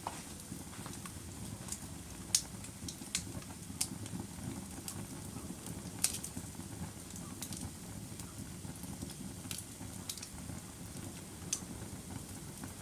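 Wood fire burning: a steady low rumble of flames with irregular sharp pops and crackles, roughly a dozen, a few of them louder than the rest.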